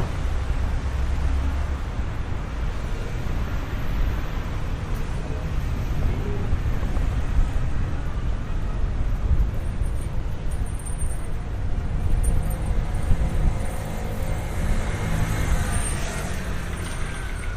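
City street traffic: a steady low rumble of passing vehicles with wind buffeting the microphone. A vehicle engine's low drone becomes clearer near the end.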